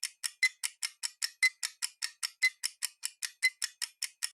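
Countdown timer sound effect: a clock ticking quickly and evenly, about five ticks a second, with one accented tick each second.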